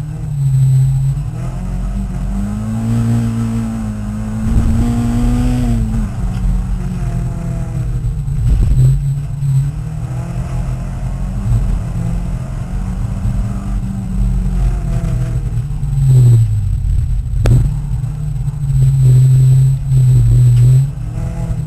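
Peugeot 306 race car's engine heard from inside the cabin, revving hard and rising and falling in pitch as the driver accelerates and lifts around the dirt circuit. There is one sharp knock late on.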